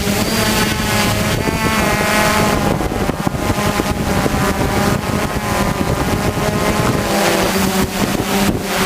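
Hexacopter's electric motors and propellers whining, the pitch shifting up and down as the speeds change, with wind buffeting the microphone.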